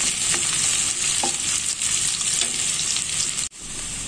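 Chopped onion, garlic and bay leaves sizzling in hot oil in a non-stick pan, stirred with a spatula in short scraping strokes: the onions frying for a tempering (bagar). About three and a half seconds in, the sound cuts off abruptly and comes back quieter.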